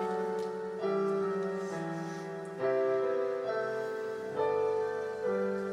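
Piano playing slow, sustained chords, with a new chord struck about every second or two and left to ring and fade.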